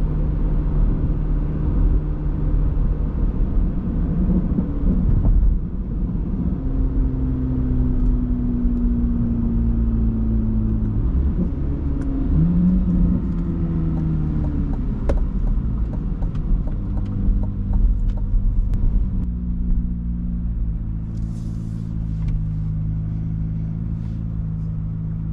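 Corvette C8 Z06's flat-plane-crank V8 exhaust while driving. The revs rise, then ease off slowly in a long falling note, followed by another short pull. Over the last few seconds it runs at a steady low note. The car is being short-shifted at about 5–6k rpm for engine and transmission break-in.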